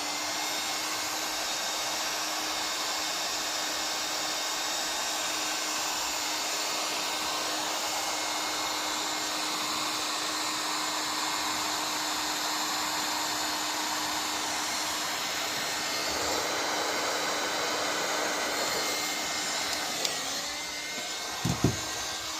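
Electric hot-air heater blowing steadily with a constant hum, warming a nitro RC engine to heat-soak it before its first start. About 20 seconds in its sound dips slightly, and a couple of short knocks follow near the end.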